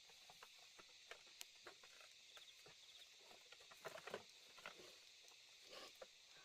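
Faint, irregular light clicks, taps and rustles, a cluster of them about four seconds in, over a steady high hiss.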